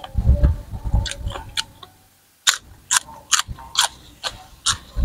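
Close-up crisp crunching of raw morning glory stems being bitten and chewed. After a brief pause about two seconds in, sharp crunches come about three times a second.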